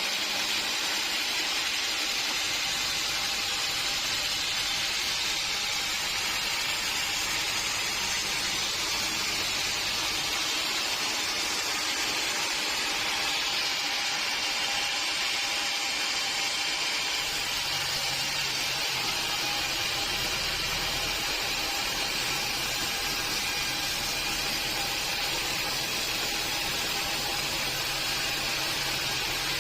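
Sawmill machinery running steadily, a constant mechanical noise, with a deeper hum joining in a little past halfway.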